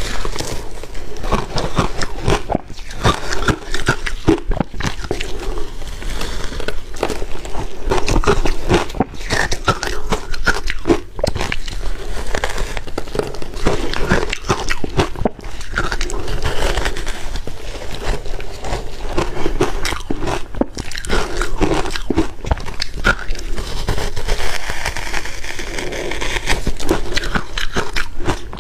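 Ice being bitten and chewed: a continuous, loud, irregular crunching and crackling.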